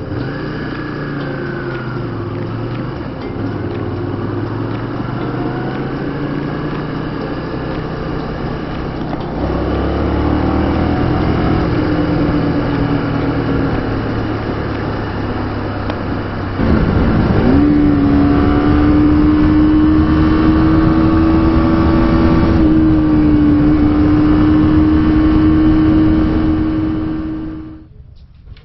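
Honda VTR250's 250cc V-twin engine running under way, its note rising and falling with the throttle. About two-thirds of the way through it gets louder and holds a steady, higher pitch, then cuts off abruptly near the end.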